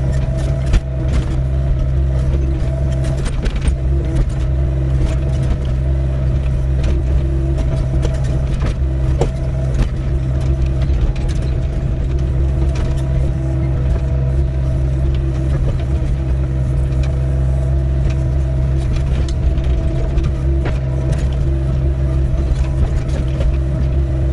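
Diesel engine of a Doosan 55W wheeled excavator running steadily while it digs, with frequent short knocks and scrapes of the bucket working stony ground.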